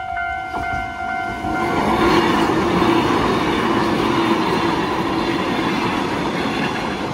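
Kotoden retro electric train passing close by, its wheels rolling over the rails, the sound swelling about two seconds in and then slowly easing. A steady high tone cuts out just as the train noise rises.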